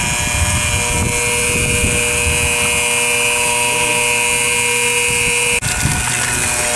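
Electric water pump running steadily with a motor whine as it pumps rainwater out of a drum. Near the end the sound drops out for an instant, and the pitch changes slightly afterwards.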